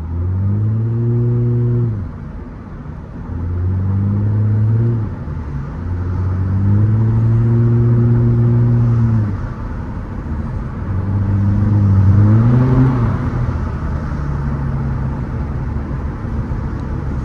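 Straight-piped Nissan Altima exhaust pulling hard four times in a row, each time the engine note swelling under throttle and falling away as it lets off, the last pull rising in pitch. It then settles into a lower steady drone.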